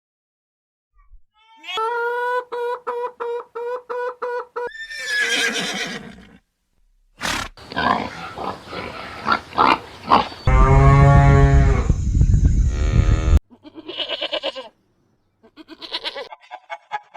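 Farm animals calling one after another with short gaps: first a pulsing, pitched call about two seconds in, then a run of rough, noisy sounds, a long loud call, and short higher-pitched calls near the end.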